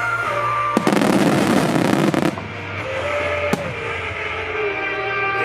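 Aerial fireworks going off over loud pop music. About a second in comes a dense crackling burst lasting about a second and a half, followed by a single sharp report a little after halfway.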